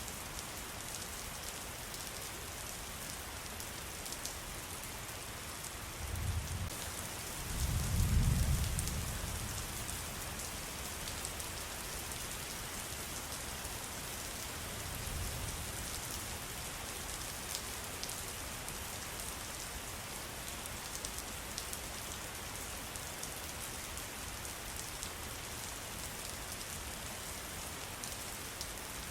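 Steady patter of rain. A low rumble swells and fades about six to nine seconds in, and a fainter one comes around fifteen seconds.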